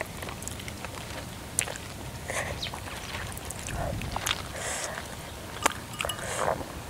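Eating sounds: chewing and picking at boiled fish, with small scattered clicks and short wet smacks.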